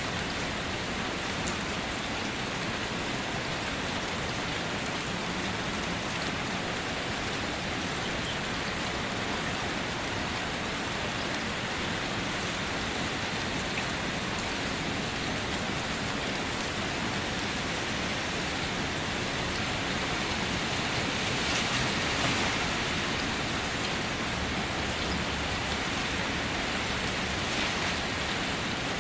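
Steady, even rain falling and hitting surfaces, with a slight swell in intensity a little past the middle.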